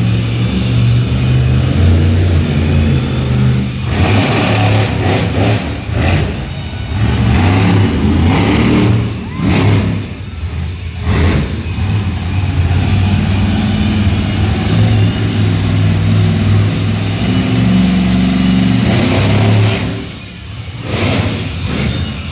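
Monster truck engine running loud, alternately revving and settling, with its pitch and level rising and dropping several times.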